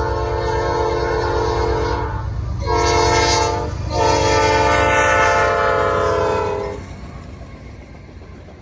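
Norfolk Southern freight locomotive's air horn sounding a chord: a long blast ending about two seconds in, a short blast, then a final long blast, the close of a grade-crossing signal. A steady low rumble from the locomotive and train runs underneath and carries on after the horn stops.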